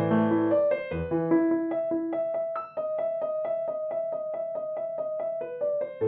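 Background piano music: a gentle melody over chords, with a passage of quickly repeated notes in the middle.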